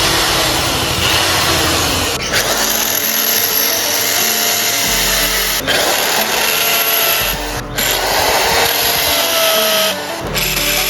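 Electric drill boring holes, running steadily and pausing briefly a few times.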